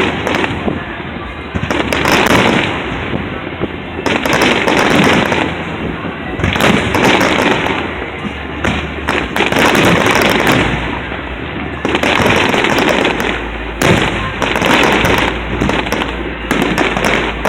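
Aerial fireworks display: shells bursting one after another with crackling, the bursts coming in dense clusters every second or two.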